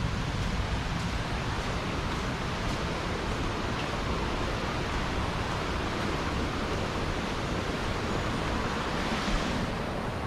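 Steady rush of a fast-flowing jungle creek, a continuous even roar of water with a slight swell near the end.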